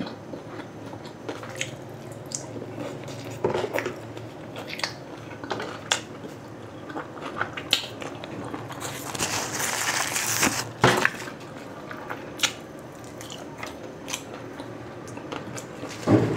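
Close-miked chewing and wet mouth sounds of a person eating grilled chicken feet, with scattered short clicks and smacks. There is a longer wet sucking sound about nine seconds in, as fingers are licked.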